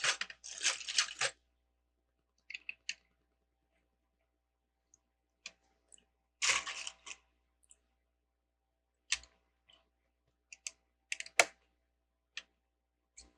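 Plastic Lego bricks clicking and rattling as they are handled and pressed together, in scattered short bursts with quiet gaps between them.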